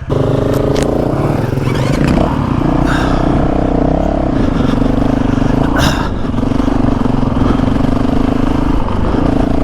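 Honda CRF450RL's single-cylinder four-stroke engine under throttle as the dual-sport bike pulls away on a dirt road, then running at a steady pitch. A few short clatters of stones or parts cut through about a second, three seconds and six seconds in.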